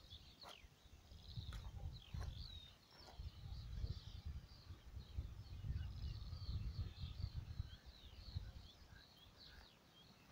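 Small birds chirping and twittering over a low, uneven rumble, with one sharp click right at the end.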